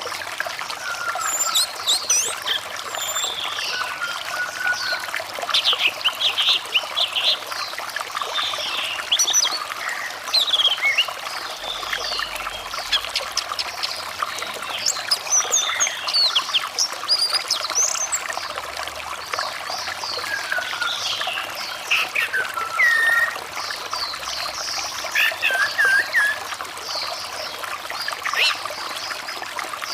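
Steady trickling of running water, with an orange-headed thrush singing over it in a continuous run of quick, varied whistles and chirps.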